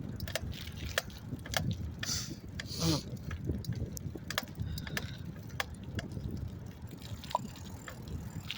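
Riding a bicycle: a steady low rumble of tyres and wind on the microphone, with scattered clicks and rattles from the bike. A brief hiss rises about two to three seconds in.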